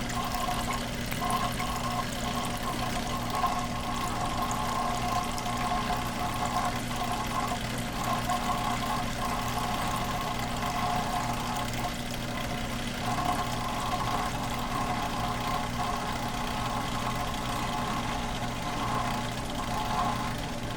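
Frigidaire dishwasher running its cleaning cycle: a steady pump-motor hum with water moving inside, mid-pitched surges coming and going.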